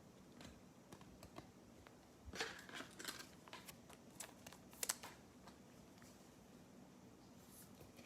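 Faint rustling and clicking of football trading cards being handled and flipped, with a cluster of sharper clicks and scrapes between about two and five seconds in.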